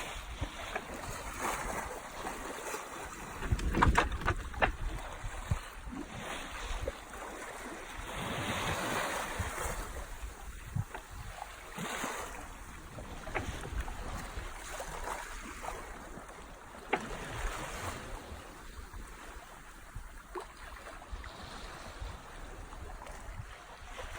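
Sea water washing along a sailboat's hull under sail, with wind on the microphone and a few sharp knocks, the loudest about four seconds in.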